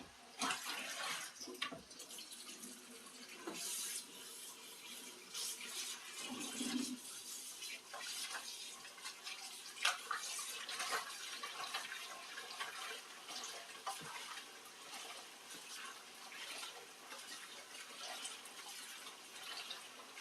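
Dishes being washed at a kitchen sink: tap water running, with dishes and utensils knocking and clinking now and then.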